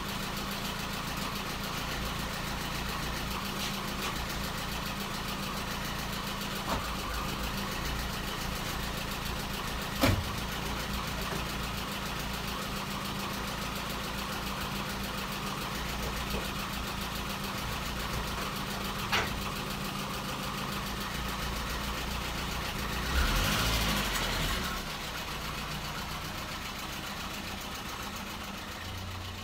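VAZ-2115 car engine idling steadily, with a few sharp knocks, the loudest about ten seconds in. There is a brief louder rush of noise a little before the end.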